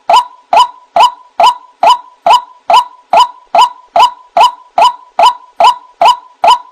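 White-breasted waterhen (ruak-ruak) call used as a bird-trapping lure: a sharp, loud 'wak' note repeated at an even pace, about two and a half times a second.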